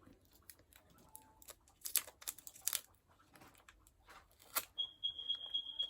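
Plastic wrapper of an individually wrapped chewy candy crinkling and crackling as it is unwrapped, in sharp irregular crackles. Near the end a faint steady high tone sounds for about a second.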